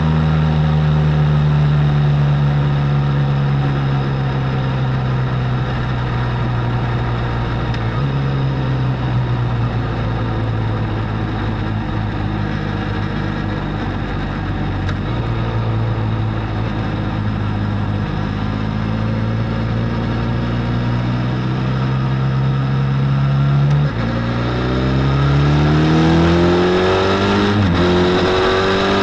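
Benelli Leoncino 500's parallel-twin engine on its stock exhaust, under way at a steady cruise with the revs slowly easing. Near the end the revs drop sharply with a gear change and climb again, twice, as the bike accelerates up through the gears.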